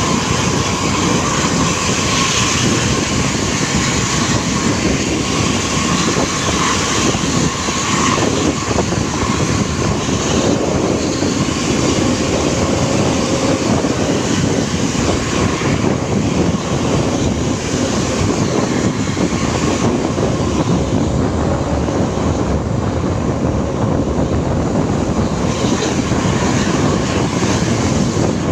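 Sumber Jaya Trans intercity bus's diesel engine working hard at speed on a climb, a loud, steady drone mixed with road noise.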